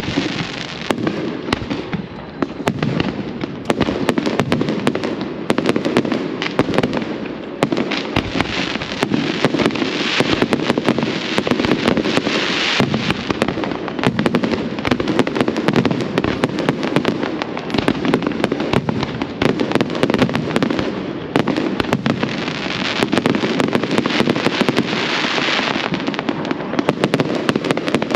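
Fireworks display going off: a dense, continuous barrage of bangs and crackling, many reports a second over a constant rumble.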